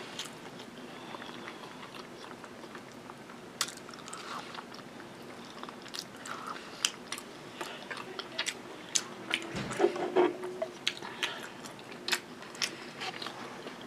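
Close-miked chewing and wet mouth clicks of a person eating macaroni and cheese, the clicks coming irregularly. A soft bump about ten seconds in is the loudest moment.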